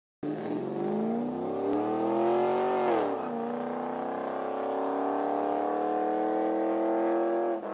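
A car engine accelerating. Its pitch climbs, drops sharply at a gear change about three seconds in, then climbs slowly again.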